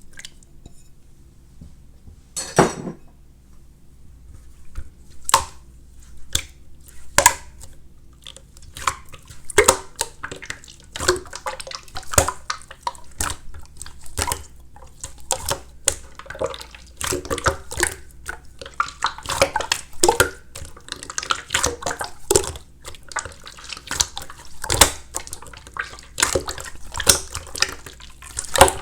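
Slime being squished and stretched by hand, making irregular wet clicks and pops. They are sparse at first, with a longer squelch about two and a half seconds in, then come several times a second.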